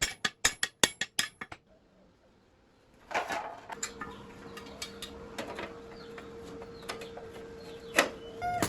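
Metal clinking and tapping: a quick run of about eight sharp taps, a short pause, then a clatter followed by scattered knocks and clinks.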